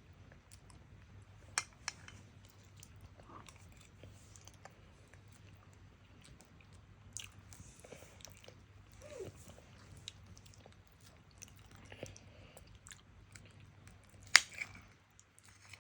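Close chewing and wet mouth sounds of someone eating soft durian flesh, with scattered small clicks and two sharp clicks, about a second and a half in and near the end.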